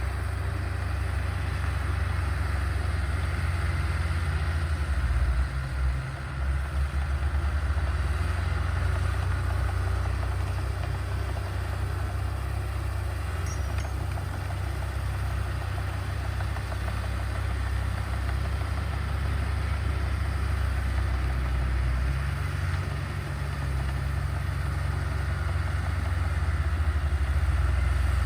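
Diesel engine of heavy earthmoving machinery running steadily with a deep low drone, its note shifting briefly about five seconds in and again about twenty-two seconds in.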